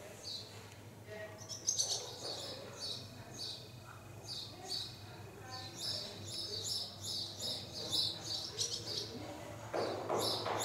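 Small birds chirping steadily in short, high, rapidly repeated notes, about two or three a second.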